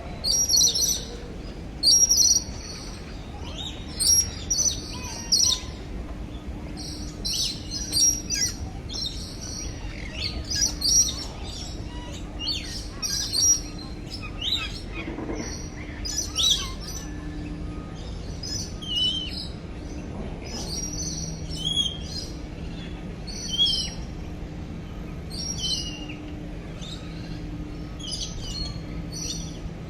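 Birds chirping steadily in an aviary: many short, high chirps repeating every second or so, busiest in the first half, over a faint low hum.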